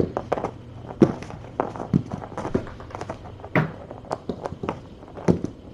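Irregular light taps and thuds of kittens playing and scampering with toys, over a steady low hum.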